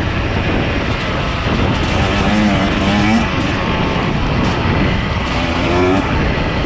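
Enduro motorcycle engine revving over steady wind and riding noise, its pitch rising twice: about two seconds in and again near the end.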